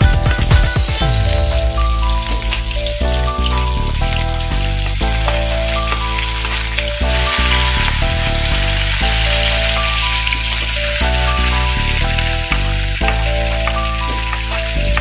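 Chopped shallots and garlic sizzling in hot oil in a frying pan, the sizzle growing louder about seven seconds in as chopped chillies and sliced fried chicken are scraped in from a cutting board. A simple background melody plays over it.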